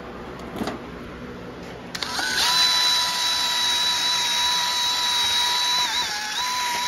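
Electric drill spinning up to a steady high whine, driving a brush to scrub carbon off a piston top, with a brief dip in speed near the end as the brush bears down. A few light handling clicks come before it starts, about two seconds in.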